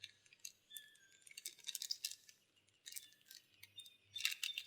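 Snack packaging crinkling and clicking as it is handled, in several short clusters of sharp crackles, the loudest near the end.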